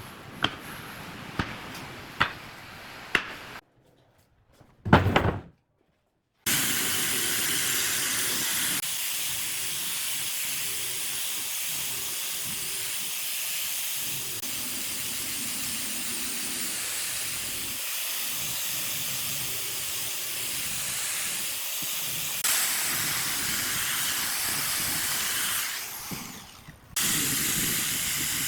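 A few sharp taps, then after a short silence a steady, loud hiss, like air or spray under pressure, that runs on with small shifts and drops out briefly near the end.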